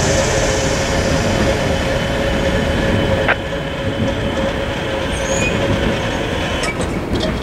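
Freight train moving away, a steady rumble with a thin steady wheel squeal. A sharp click comes about three seconds in, after which the squeal fades and the rumble is a little quieter.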